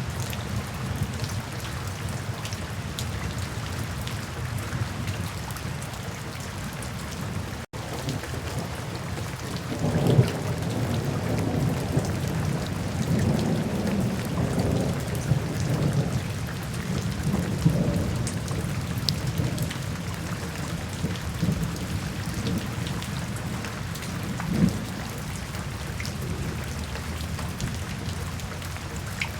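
Steady rain falling, with rolling thunder rumbling in about ten seconds in and swelling several times, loudest near the start of the rumble. The sound drops out for a split second about eight seconds in.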